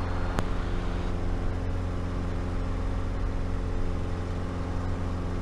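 Light aircraft's piston engine and propeller running steadily at takeoff power as the plane lifts off and climbs, heard from the cockpit as a constant drone with a deep hum. One short click comes about half a second in.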